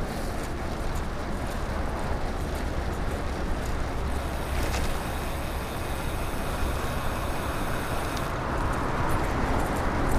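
Wind rushing over the camera microphone, with tyre and road noise from a bicycle moving fast, at about 24 mph. It is a steady low rumble, with a brighter hiss added for a few seconds in the middle.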